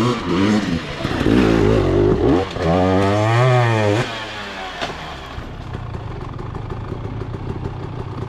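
Dirt bike engine revving hard several times, its pitch climbing and falling, then settling to a steadier, lower running after about four seconds.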